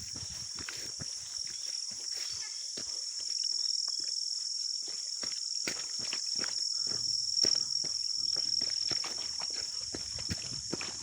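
Steady high-pitched drone of insects, with irregular footsteps on the trail.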